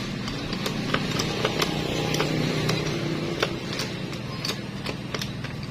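Scattered light metallic clicks and taps of small engine parts and hand tools being handled during motorcycle engine assembly, over a steady low hum.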